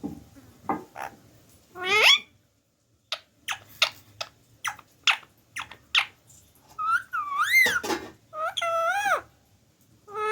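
Pet parrot vocalising: a rising whistle, then a string of short, sharp clicks, then two longer calls that swoop up and down in pitch.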